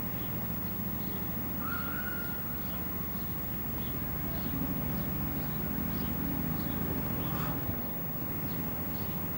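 Steady low rumble of outdoor background noise, with faint, short high chirps of small birds scattered through it and a brief higher call about two seconds in.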